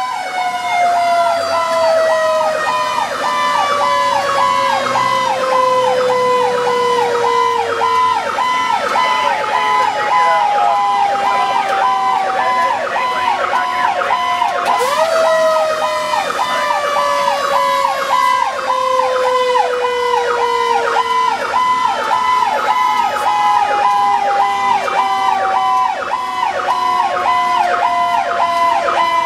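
Fire truck sirens: an electronic siren in a fast yelp, flicking rapidly up and down, over a mechanical siren winding down in a slow falling wail that is revved back up about halfway through and then falls again.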